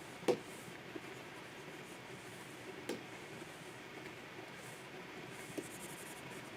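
Pen nib scratching over a Wacom 24 Pro pen display in drawing strokes, with three sharp taps: the loudest just after the start, another near three seconds in and a softer one at about five and a half seconds.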